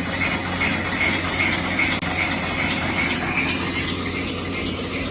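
Excavator-mounted rock saw running and cutting: steady, loud machine noise with a low hum, and a high scraping sound that pulses a little over twice a second.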